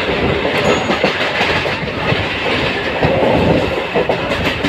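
Passenger train running along the track, heard from on board, with the clatter of its wheels over the rails.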